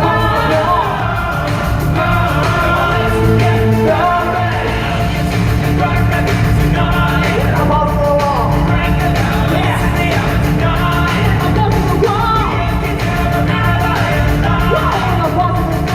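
Loud live rock music with a singer's voice sliding up and down over a heavy, steady bass, recorded on a cell phone.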